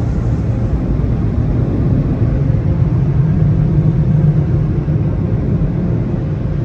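Hanna tunnel car wash equipment running: a steady low rumble with a faint constant hum.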